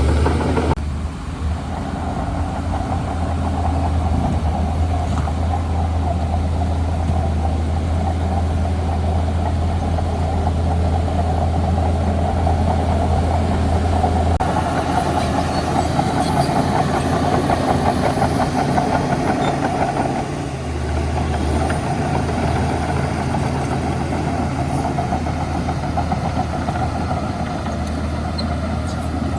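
Diesel engine of a Shantui DH17C2 bulldozer running steadily as it works. Its note shifts a few times, with a brief dip about two-thirds of the way through.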